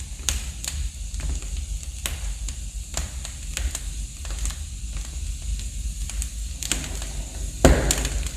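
Wood fire crackling in a fireplace: irregular sharp snaps and pops over a low steady rumble of the flames, with a louder burst of crackling near the end.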